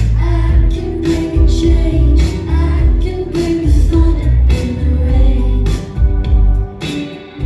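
Electro-pop band playing live: a female voice singing over a heavy bass line and a steady drum beat.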